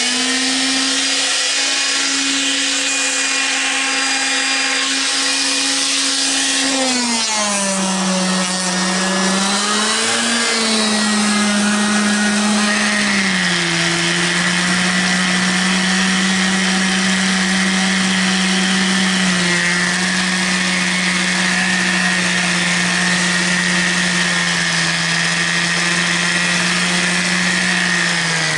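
Handheld electric power tool vibrating fresh cement patch, its motor running steadily after switching on with a rising spin-up. Its pitch drops about seven seconds in, wavers, and drops again a few seconds later as the tool takes load, then holds.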